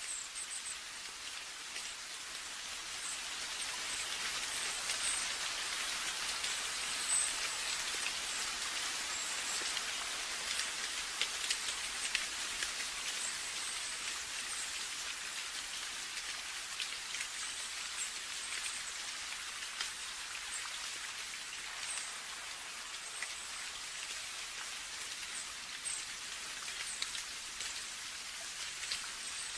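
Steady rain: an even hiss of rainfall with scattered individual drop ticks.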